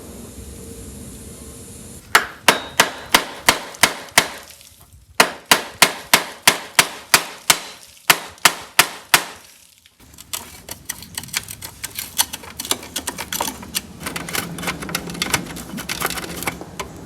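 A steel hand tool working a rusted fastener on a VW Type 4 engine's tinware: two runs of sharp, ringing metal-on-metal strokes at about three a second, then a quicker, lighter patter of clicks and rattling.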